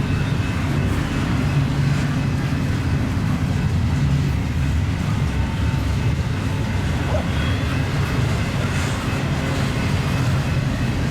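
Union Pacific double-stack freight train rolling past, a steady low rumble of wheels on the rails.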